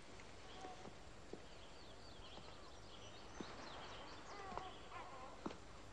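Quiet background ambience with faint, short bird chirps, a little more frequent in the second half, and a few soft clicks.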